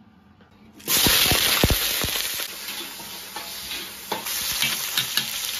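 Food going into hot oil in an iron wok: a sudden loud sizzle starts about a second in and keeps on as it is stirred.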